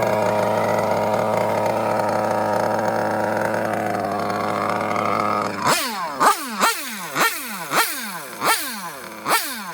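OS Speed R2103 .21 nitro engine in a BMT 021 GT RC car running at a steady speed. From a little over five seconds in, it gives a series of sharp throttle blips, about one every half second, each revving up suddenly and falling away in pitch.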